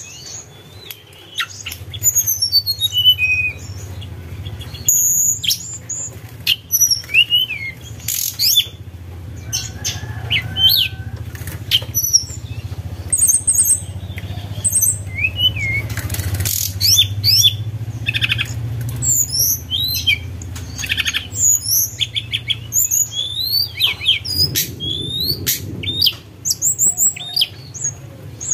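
Tledekan gunung, a small Indonesian songbird, singing a busy run of short whistled notes and chirps that rise and fall in pitch, with a steady low hum underneath.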